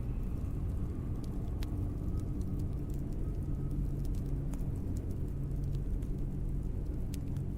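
Wood fire burning in a fireplace: a steady low rumble with scattered sharp crackles and pops from the logs.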